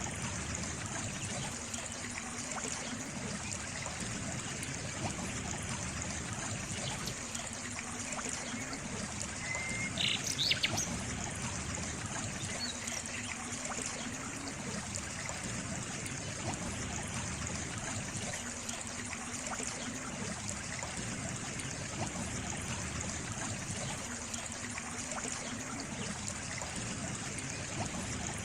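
Water trickling steadily, with a short bird call about ten seconds in.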